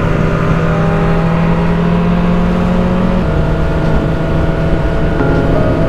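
Motorcycle engine running at steady speed while riding, with wind rumble on the helmet microphone; the engine note drops a step about three seconds in.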